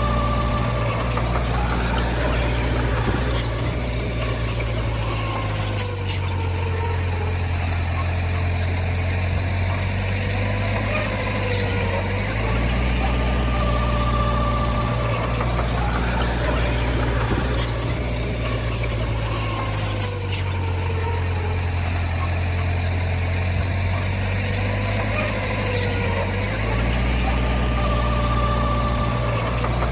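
Bulldozer's diesel engine running under load, its pitch shifting up and down every few seconds as the machine works back and forth, with occasional sharp metallic clanks.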